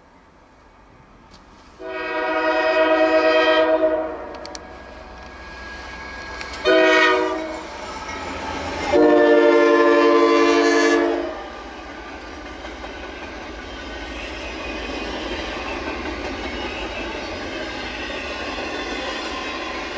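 Norfolk Southern diesel locomotive's air horn sounding a long, a short and a long blast. This is followed by the steady rumble and clatter of a double-stack intermodal freight train's wheels as the cars roll past.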